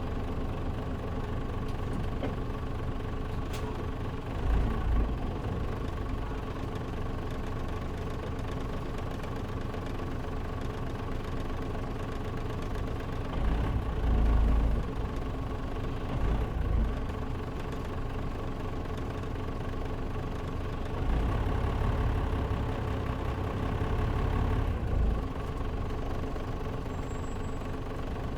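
Inside the cabin of a Mitsubishi Fuso Aero Star KL-MP37JM city bus: its diesel engine runs steadily with a low hum, and a few short low rumbles rise and fall about 4, 14, 16, 21 and 25 seconds in. The air conditioning is off, so the engine is heard without fan noise.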